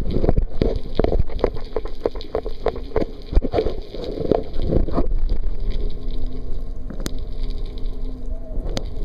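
Water sloshing and gurgling around a camera held underwater, with irregular clicks and knocks for the first five seconds. After that it settles to a steadier wash with a faint steady low hum and a few sharp clicks.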